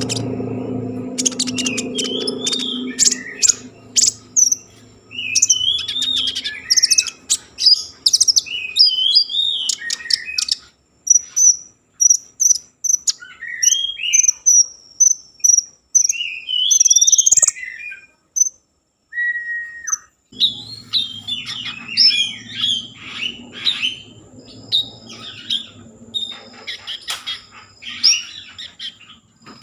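A konin songbird singing a fast, varied song of sharp chirps, whistled notes and trills, with a pause of a couple of seconds past the middle. A low hum sits beneath the song at the start and again through the second half.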